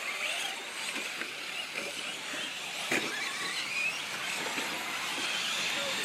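Radio-controlled short course trucks racing: high motor whine rising and falling as the trucks speed up and slow down, with scattered clicks and knocks.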